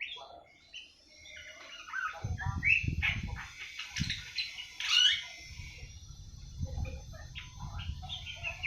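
Young awar-awar bird, about seven months old, twittering in quick short chirps and warbled fragments: the soft early chatter (ngriwik) of a young bird starting to find its song. A low rumble runs under it from about two seconds in.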